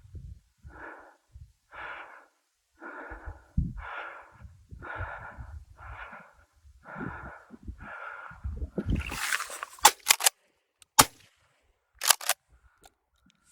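A person breathing hard, about one heavy breath a second. Near the end comes a burst of rustling with a few sharp clicks, one loud sharp knock, and then a couple more clicks.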